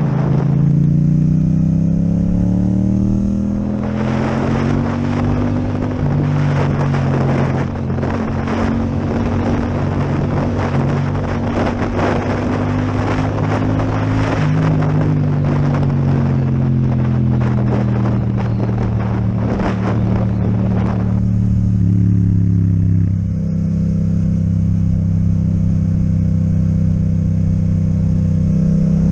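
Yamaha MT-07's parallel-twin engine with an Akrapovic exhaust running under way. Its note rises over the first few seconds, holds, then eases down, with a change in pitch about 23 seconds in. Rough crackling noise runs through much of the middle.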